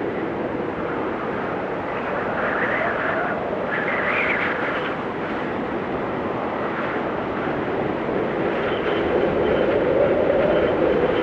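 Blizzard wind blowing steadily, with higher whistling gusts about two and four seconds in and a lower, louder swell near the end.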